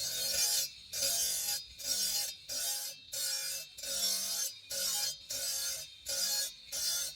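Green marble being worked by hand with a file, in steady back-and-forth rasping strokes, about one and a half strokes a second.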